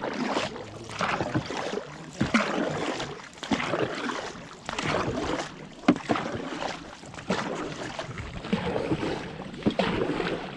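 Water splashing around a dragon boat and its paddles, the sound swelling and fading in a regular rhythm about once every second or so, with sharp splashes at the catches.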